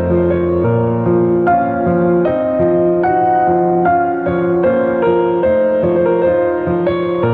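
Solo piano music, slow and gentle, with a new note or chord about every half second to second.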